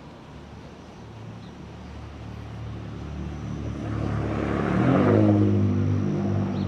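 A motor vehicle passing close by. Tyre and engine noise swell to a peak about five seconds in, and the engine's pitch drops as it goes past.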